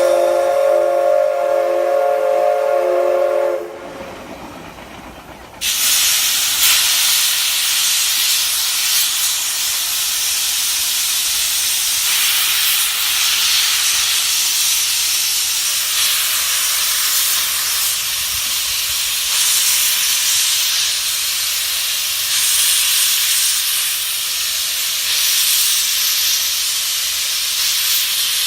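Steam locomotive's whistle blowing for about four seconds, then, after a short lull, a loud steady hiss of steam venting that carries on.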